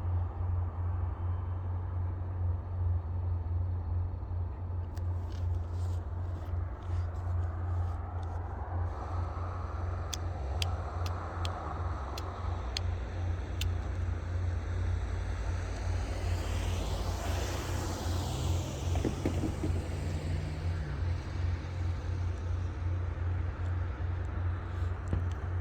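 EMD SD40-2 diesel-electric locomotives, 16-cylinder two-strokes, running as they approach and pass with a steady low drone. The sound swells and sweeps as they go by about seventeen seconds in, and a few sharp clicks come a few seconds before that.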